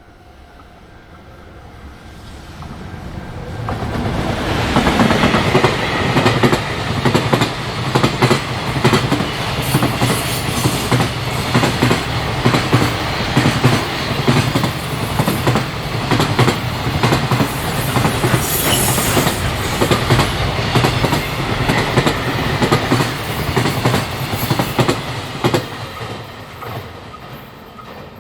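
A container freight train passing on the rails. It grows louder over the first few seconds, then runs as a long loud stretch of wheels clattering over rail joints, with a brief high squeal partway through, and fades near the end.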